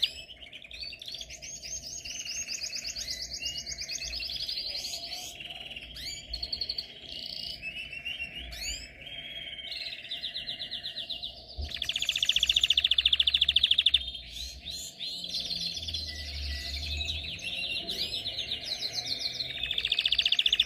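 Domestic canary singing a long, unbroken song made of rapid trills and rolls of repeated notes, changing from one trill to the next every second or two. The loudest, steadiest rolls come about twelve seconds in, lasting about two seconds, and again near the end.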